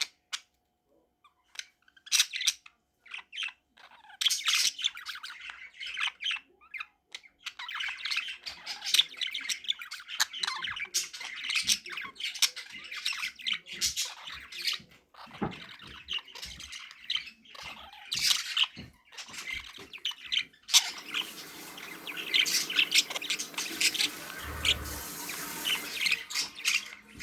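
Budgerigar chattering and warbling: rapid chirps, clicks and squawky beeps likened to R2-D2's sounds. It starts in short separate bursts, then runs into near-continuous chatter, with a steady hiss joining underneath about three quarters of the way through.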